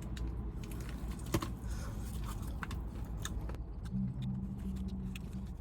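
Fried chicken being chewed with small wet clicks and smacks of the mouth, over a low steady rumble in the car's cabin. A steady low hum joins about four seconds in and lasts over a second.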